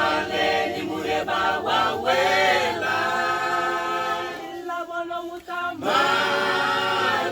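A church youth choir singing a cappella in close harmony, holding long sustained chords, with a softer, thinner passage about two-thirds of the way through before the full choir comes back in.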